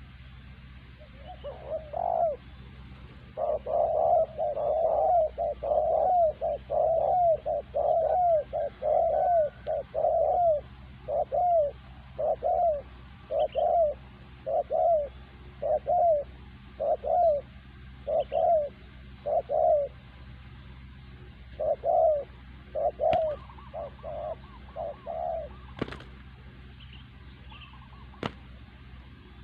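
Spotted dove (terkukur) cooing: a long series of short, low coos about one a second, with a brief pause partway through. A few sharp clicks come near the end.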